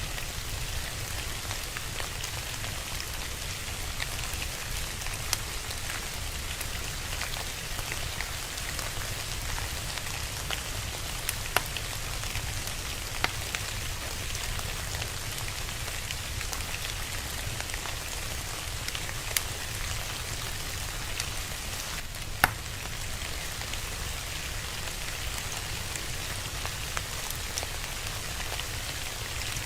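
Steady rain with a fire crackling, a few sharp pops of the fire standing out over the even hiss of the rain, the loudest about three-quarters of the way through.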